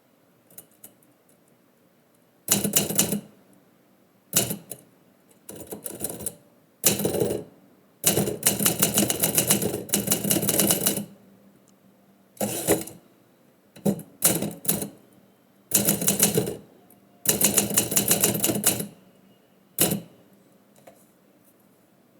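Typewriter typing in about ten quick runs of rapid keystrokes, with short pauses between runs.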